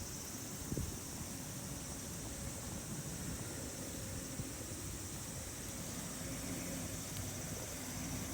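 Steady outdoor background noise, a low rumble under a high hiss, with a single knock about a second in.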